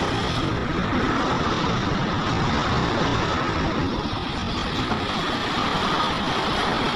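Heavy diesel earthmoving machinery running steadily at a constant engine speed.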